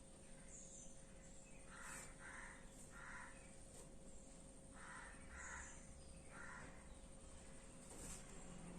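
Faint bird calls: two runs of three short calls, the runs about three seconds apart.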